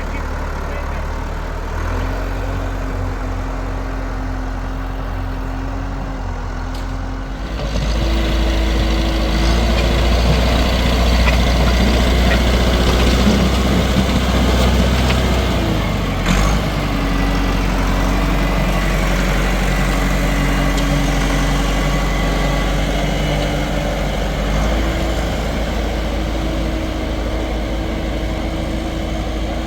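Tractor engine running steadily. It grows louder about seven seconds in, and its pitch steps up and down a few times as the throttle changes.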